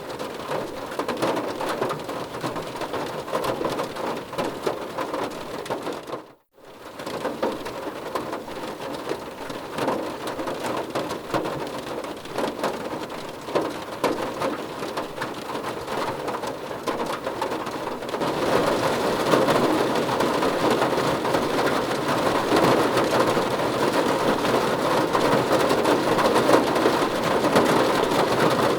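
Rain falling on a car roof: a dense, steady patter of drops. It cuts out briefly to silence about six seconds in, then returns, and about two-thirds of the way through it steps up to heavier, brighter rain.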